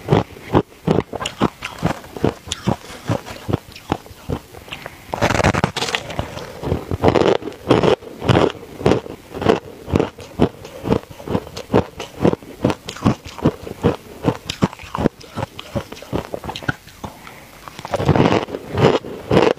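Ice being bitten and chewed close to the microphone: a steady run of sharp, cracking crunches, about two or three a second, with denser stretches of grinding crunches about a quarter of the way in and again near the end.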